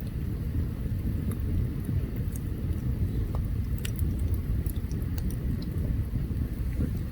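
Open campfire burning: a steady low rumble with sharp crackles and pops scattered irregularly throughout, a few of them louder, about four seconds in.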